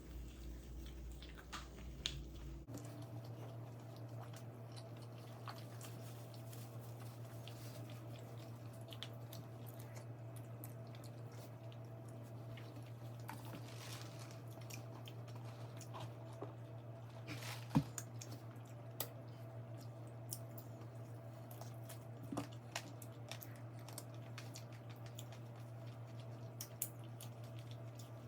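Faint chewing of mac and cheese and fried chicken, with scattered small clicks, over a steady low hum.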